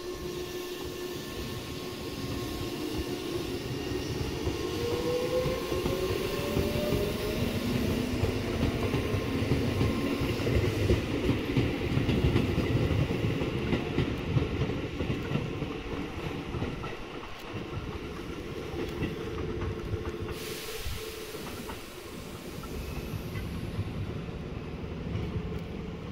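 Electric commuter train pulling away from a station: its motor whine rises in pitch as it gathers speed over the first several seconds, over a rumble of wheels on the rails that grows loudest about halfway through and then eases as the train leaves.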